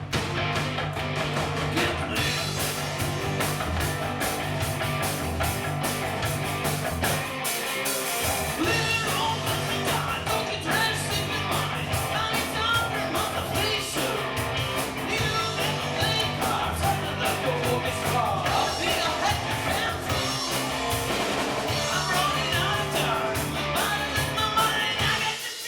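Rock band playing live, with guitar, bass and drums and a wavering lead line over the top.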